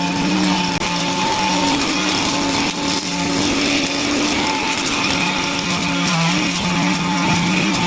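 Small petrol engine of a handheld cutting tool running steadily at high revs while clearing overgrowth, with a brief dip in speed about six seconds in.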